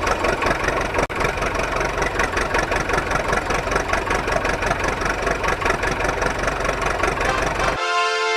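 Truck engine idling with a fast, even pulse. A horn sounds briefly near the end.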